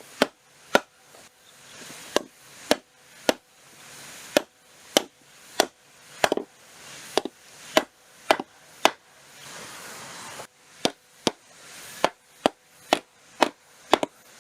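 Wooden joinery pieces of a timber frame being tapped and knocked into their joints: a long, irregular string of sharp wooden knocks, about one or two a second.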